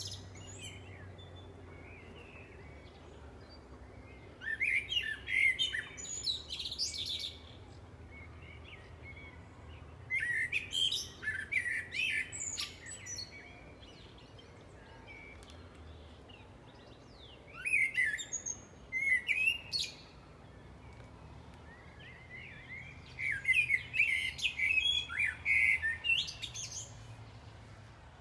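A songbird singing in bursts of chirping phrases two to four seconds long, four times, with pauses between them.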